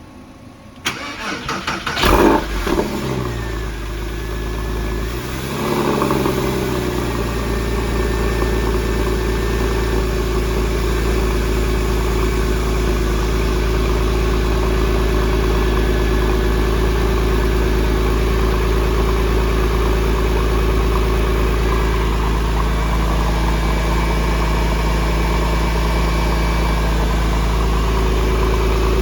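2004 Porsche 911's flat-six engine cold-started: the starter cranks for about a second, the engine catches with a loud flare about two seconds in, and the revs fall back. Around six seconds the idle rises again, then the engine holds a steady cold idle.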